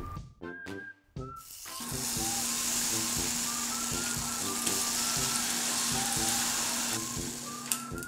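A pineapple slice sizzling as it fries in melted butter in a nonstick pan. The sizzle starts about a second and a half in, holds steady, and eases off near the end.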